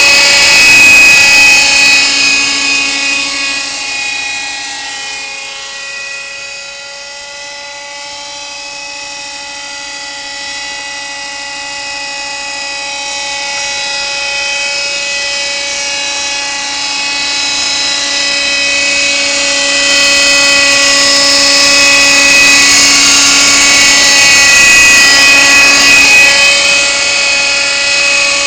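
Kyosho Nexas 30 nitro RC helicopter in flight: its glow engine gives a high, steady whine along with the rotor. The sound fades to its quietest about seven seconds in, then grows louder again over the second half.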